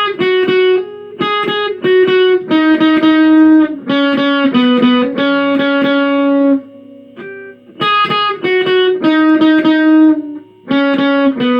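Guitar playing a single-note pentatonic riff, picked in short repeated phrases with a brief pause about seven seconds in.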